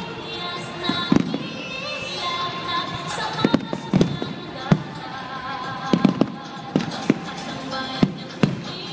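Fireworks shells bursting in sharp bangs, some single and some in quick pairs, about ten in all. Music plays without a break underneath.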